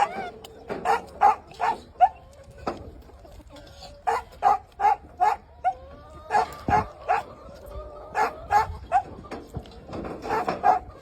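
An animal calling in quick runs of three to five short, pitched notes, with several such runs one after another.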